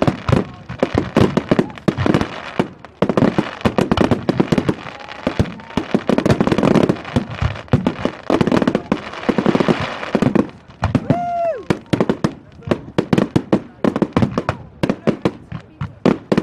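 Fireworks display: a dense, rapid barrage of bangs and crackling shell bursts, easing briefly about two-thirds of the way through, with crowd voices beneath.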